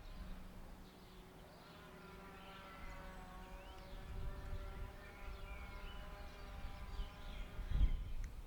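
Outdoor ambience: birds chirping over a steady droning hum. A low rumble swells near the end.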